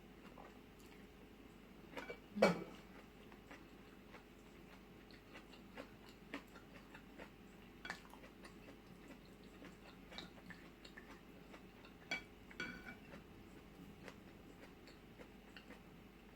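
Spoon and cutlery clinking against a bowl and plate during a meal, with quiet chewing and small mouth sounds between. The loudest clatter comes about two and a half seconds in, with a few more clinks around twelve seconds.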